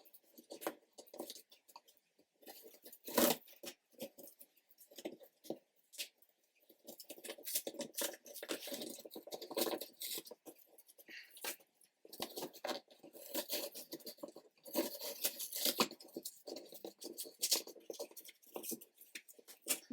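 Old cardboard box being pried and worked open by hand, its dried factory glue tearing and the cardboard scraping and rustling in irregular bursts, with one sharp knock about three seconds in.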